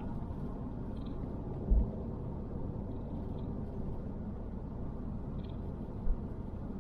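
A car driving slowly, heard from inside the cabin: a steady low road and engine rumble, with two brief low thumps.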